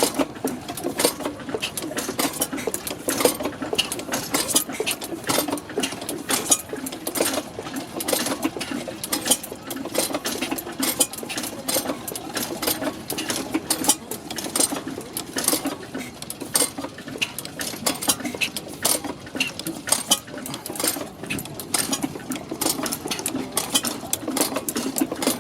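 Brantford stationary heavy-oil engine with Hvid (Brons) ignition running steadily, with a fast, busy mechanical clatter of clicks and knocks.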